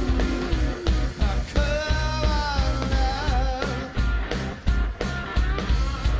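Live rock band playing: a sung vocal line over bass and a heavy drum beat. The singing drops out about three and a half seconds in, leaving the band and evenly spaced drum hits.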